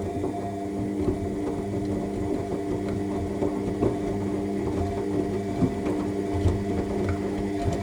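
AEG 7000 Series front-loading washing machine in its rinse stage: a steady motor hum as the drum turns, with small clicks and knocks throughout.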